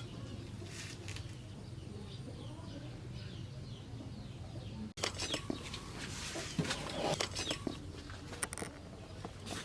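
Small birds chirping over a low steady hum; about halfway through the sound cuts off abruptly and a run of irregular knocks and scrapes follows.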